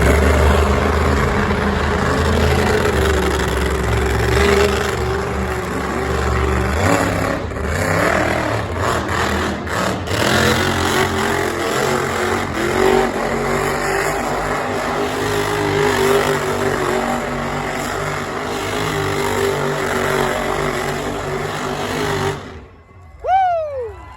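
A high-powered motorsport engine running hard, steady for over twenty seconds, then stopping abruptly near the end. A brief falling whistle-like tone follows.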